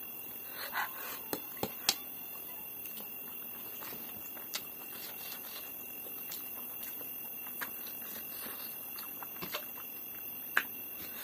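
Close-miked chewing of steamed momo dumplings, with about eight short sharp clicks scattered through it, over a steady low hiss.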